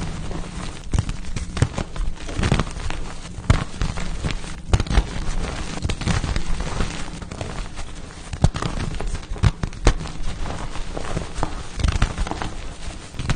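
Blocks of pasted gym chalk being crushed, crunching and crumbling in a dense run of irregular sharp cracks.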